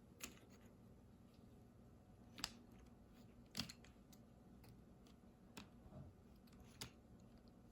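Near silence with about six faint, sharp clicks of small plastic kit parts and rubber rings being handled and fitted together.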